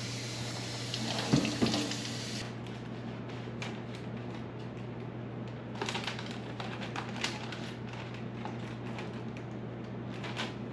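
Scattered clicks and knocks of kitchen utensils and dishes being handled during food preparation, a small cluster about one and a half seconds in, over a steady low hum.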